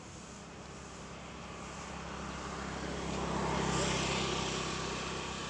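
A vehicle passing by: a steady engine-and-rush noise that swells to a peak about two-thirds of the way in, then fades.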